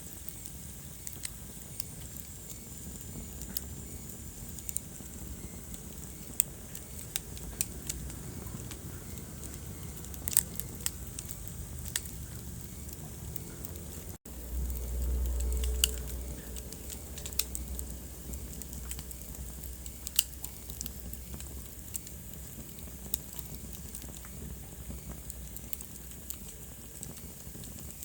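Wood fire in a fireplace crackling, with scattered sharp pops over a soft steady hiss. About 14 seconds in the sound cuts out for an instant, then a low rumble swells for about a second and a half before the crackling goes on.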